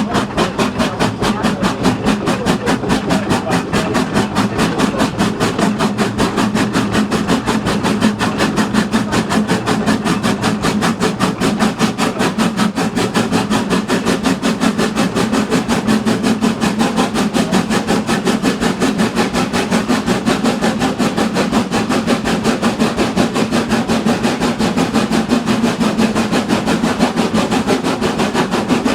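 Mountain railway train running, with a fast, even, repeating beat that holds steady throughout.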